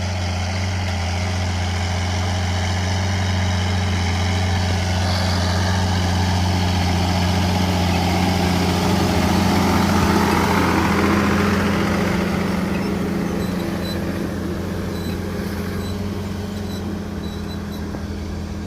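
John Deere 7710 tractor's 8.1-litre common-rail six-cylinder diesel running steadily while plowing, growing louder to about halfway and then fading as it passes by.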